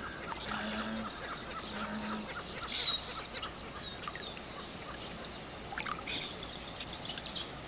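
Birds calling: a scatter of high, thin chirps and short downslurred whistles, the loudest about three seconds in.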